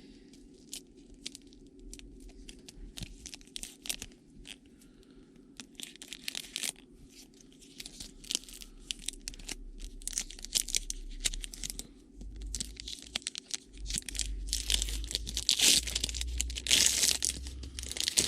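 Trading cards and a foil card-pack wrapper being handled: scattered crisp clicks and rustles that build into loud crinkling and tearing in the last few seconds as a pack is torn open.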